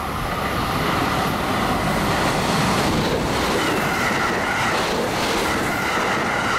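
Limited-express electric train passing at speed close by, its wheels rushing and clattering over the rails with a steady high whine. The noise builds over the first second and then holds loud.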